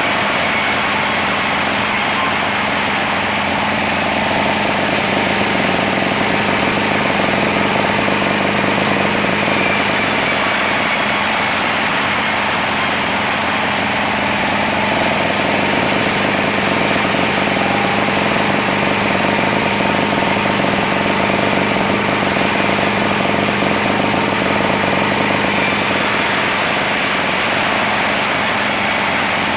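Sawmill machinery running steadily: a loud, unbroken engine-driven drone with a constant hum.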